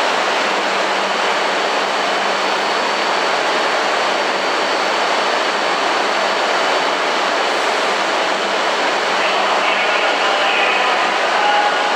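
Steady rushing hum of a Shinkansen train standing at the platform, its cooling fans and air conditioning running, with a constant low hum underneath. Faint voices from the platform crowd come in near the end.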